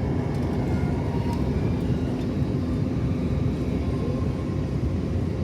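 Steady cabin noise inside an Airbus A321neo airliner: a continuous low rumble of engines and airflow with a steady hum running through it.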